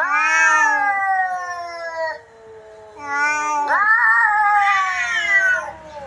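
Domestic cat meowing in two long, drawn-out calls. The first lasts about two seconds and slowly falls in pitch. After a gap of about a second comes a longer call of about three seconds.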